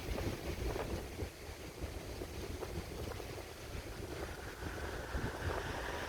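Wind buffeting the microphone in uneven gusts, with a rushing hiss that builds near the end.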